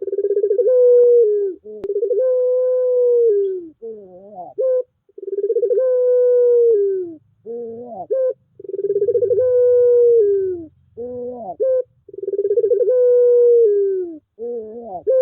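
Puter pelung dove cooing: five long drawn-out coos, each introduced by a few short upswinging notes, repeating about every three and a half seconds.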